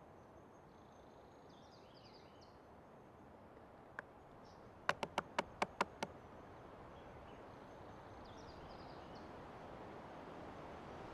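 Forest ambience: a steady rushing haze that slowly grows louder, under a faint steady high tone and a few faint bird chirps. About halfway through, a single click is followed by a quick run of about six sharp knocks.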